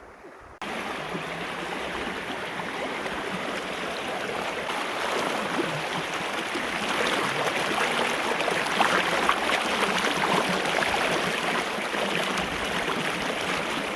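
Stream water rushing and splashing close by, a dense hiss full of small crackling splashes. It starts abruptly less than a second in and grows a little louder toward the middle.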